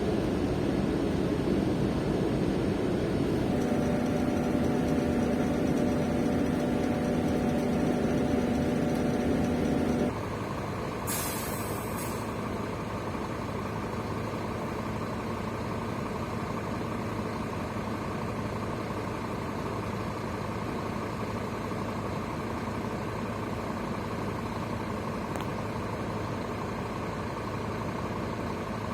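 Scania K310 coach's diesel engine running with a steady tone, then dropping back about ten seconds in. A short hiss of air follows about a second later, like an air brake or air valve venting. The engine then idles steadily.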